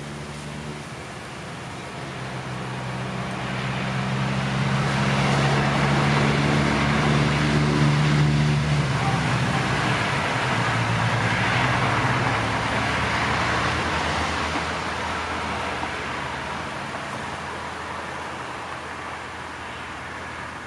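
Electric train on the JR Minobu Line running past, a low steady hum and rushing rolling noise swelling to a peak about eight seconds in, then slowly fading away.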